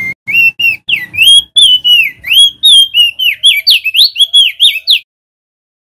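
Male opior jambul (crested white-eye) singing: a rapid run of clear whistled notes that slide up and down, quickening toward the end, then breaking off abruptly about five seconds in.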